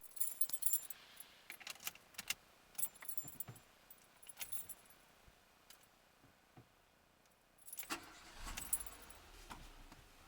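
Car keys jangling and clicking, handled at the ignition: a flurry of jingles and clicks over the first few seconds, a quiet pause, then another jangle about eight seconds in.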